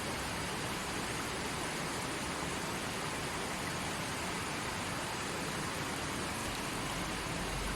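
Small forest stream flowing, a steady rushing of water over rocks.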